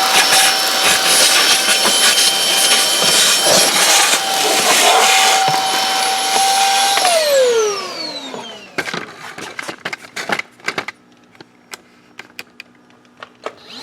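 Aspiron cordless stick vacuum's brushless motor running with a steady high whine as it cleans, switched off about seven seconds in, its pitch falling as it spins down. A run of clicks and knocks from the vacuum being handled follows, and the motor starts again at the very end with a rising whine.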